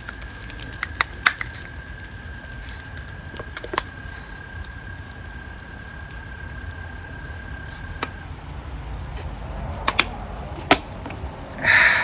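A can of beer being shotgunned: a few sharp clicks and cracks as the can is punctured and opened, then chugging, with a louder burst just before the end. A steady high-pitched trill runs behind for the first eight seconds.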